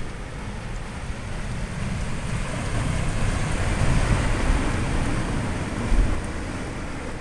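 Heavy storm surf from Hurricane Igor's swell crashing in, a deep crashing noise that swells about two seconds in, peaks around four seconds and eases off, over wind on the microphone. A brief low thump comes near the end.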